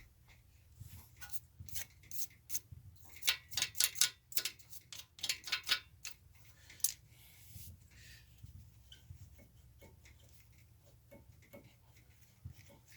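Sharp clicks and light metallic taps from tools and brake parts being handled. They come in a quick cluster over the first several seconds and then thin out to a few faint ones.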